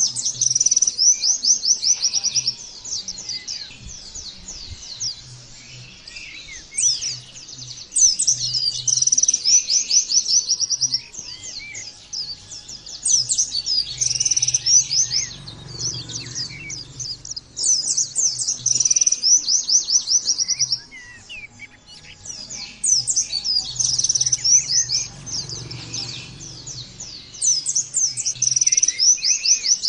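White-eye (pleci) singing in long, rapid chattering trills, phrases of a few seconds broken by short pauses: the bright, fast song that pleci keepers play to stir their own birds into singing.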